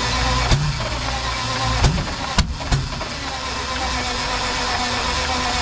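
Rolls-Royce Meteor V12 engine being turned over on a start attempt without running, with a few sharp pops about half a second, two seconds and nearly three seconds in. The crew thinks the engine is flooded.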